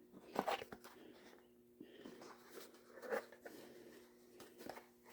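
Faint scattered clicks and taps of plastic parts of a tankless water heater's condensate collector being handled and pried apart, over a faint steady hum.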